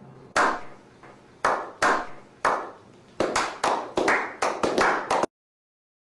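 A slow clap by one person, echoing after each clap: widely spaced at first, then speeding up into quicker clapping before it cuts off suddenly near the end.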